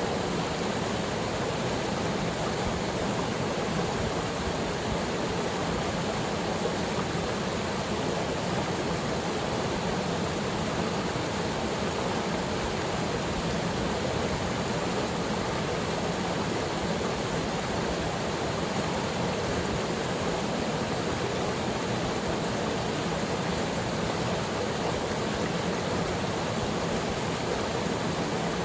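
Haipua'ena Falls, a small waterfall, pouring into its pool: a steady, unbroken rush of water.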